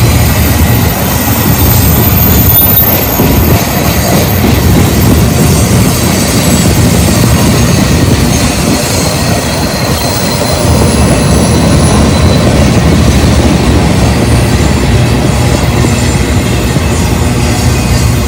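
Freight train cars rolling past close by: steel wheels running steadily over the rails with a heavy rumble. Covered hoppers, then tank cars, then boxcars go by.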